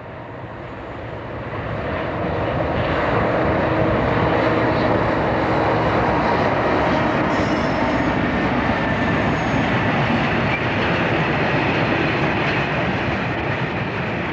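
Class 60 diesel locomotive hauling a train of hopper wagons past. It grows louder over the first two to three seconds as the locomotive nears, then holds a steady, loud running noise of wagon wheels on the rails as the train goes by.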